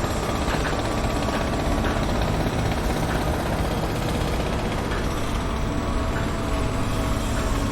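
Heavy construction machinery running with a steady low rumble, with scattered light knocks and a faint steady whine that comes in about five seconds in.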